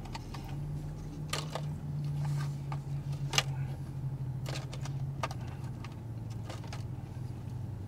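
A few sharp crunches and clicks as crunchy fried popcorn chicken is chewed and handled, over a steady low hum in the car cabin.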